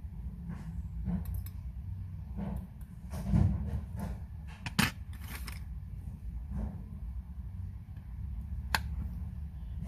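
Small metal clicks and taps of watchmaker's tools and parts being handled during work on a Seiko 6119 automatic watch movement. They are loudest a little after three seconds and near five seconds in, with a sharp click near the end, over a steady low hum.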